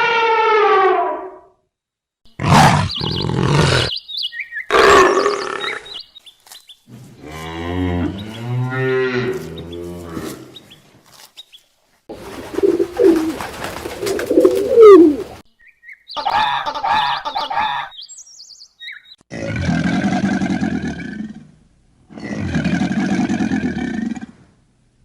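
A run of different animal calls, one after another with short pauses between them: about eight calls of a second or two each, some pitched and wavering, some rough and noisy, with the last two alike.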